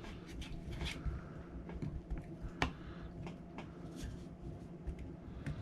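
Light scattered metal clicks and scrapes of a pin punch being worked into the trigger pin hole of a GHK G5 airsoft rifle's lower receiver, against the strong trigger spring; the sharpest click comes about two and a half seconds in.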